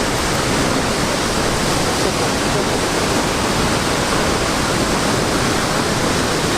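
Waterfall pouring into its plunge pool close by: a loud, steady rush of falling water.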